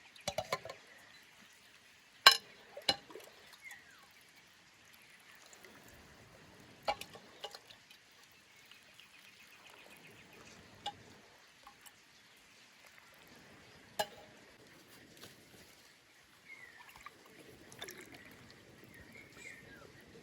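Liquid pouring and trickling, broken by a few sharp knocks or clinks, the loudest about two seconds in. Short chirps, likely from birds, come in near the end.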